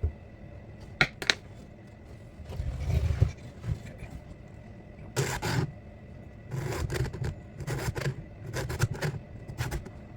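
A hand file scraping across the cutters of a chainsaw chain during sharpening: a couple of sharp clicks about a second in, a longer scrape, then a run of about five short file strokes roughly a second apart.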